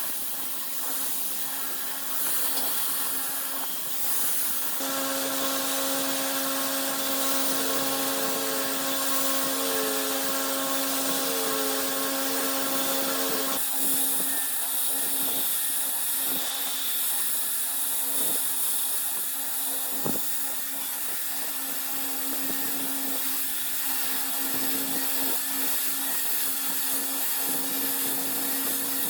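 An electric power tool's motor running with a steady whine, the pitch wavering slightly for a few seconds as it works the wood. The sound changes abruptly about five and about fourteen seconds in.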